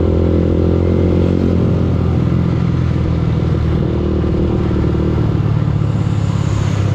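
Yamaha R15's single-cylinder four-stroke engine running under the rider. Its note drops about two seconds in as the bike eases off, then runs lower and steady.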